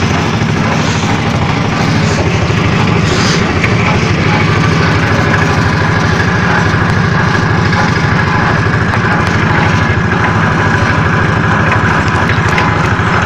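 An engine running steadily at an even speed, with a fast, even pulsing.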